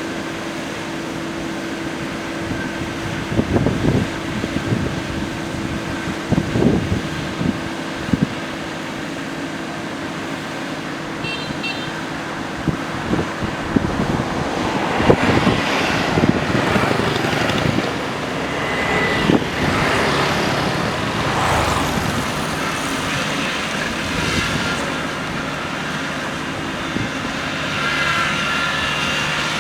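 Road traffic beside a running engine: a steady engine hum with a few thumps in the first part, then vehicles passing one after another from about halfway through.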